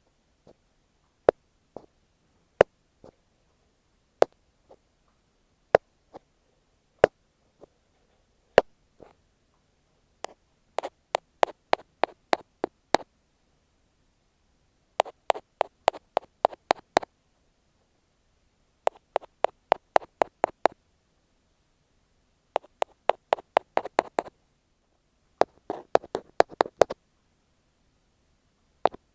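Ear pick tapping on an earphone microphone: single sharp taps about a second and a half apart at first, then from about ten seconds in, quick runs of about seven taps a second lasting two to three seconds each, separated by short pauses.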